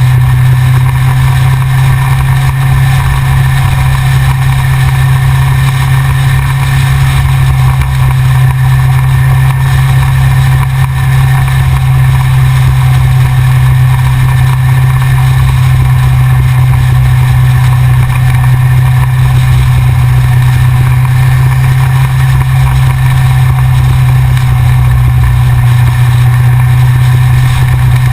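Yamaha XJR motorcycle engine running at steady, unchanging revs, heard from a camera mounted on the front of the bike, with a rough low rumble underneath.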